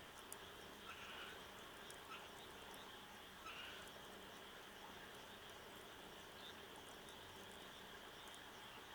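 Faint bonfire of burning wood: a few small crackles and pops over a steady low hiss, with soft chirps of small creatures behind it.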